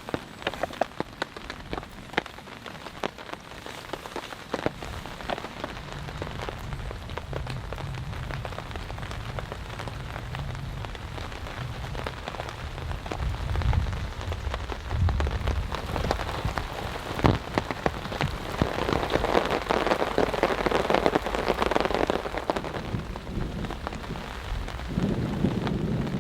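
Heavy rain falling on a camping tarp, with many sharp individual drop hits. A low rumble of thunder runs through the middle, and the rain swells louder about three quarters of the way in.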